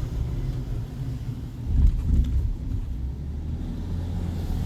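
Low, steady vehicle rumble, with a couple of louder bumps about two seconds in.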